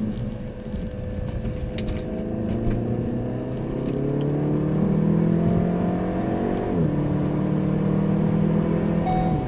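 Car engine under acceleration, its pitch climbing steadily for about seven seconds, then dropping sharply as it shifts up a gear and pulls on steadily.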